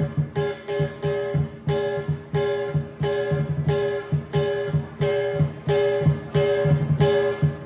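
Lion dance music: a drum, crash cymbals and a gong struck in a steady driving rhythm, about two to three strikes a second, with the gong's pitched ring running under the beats.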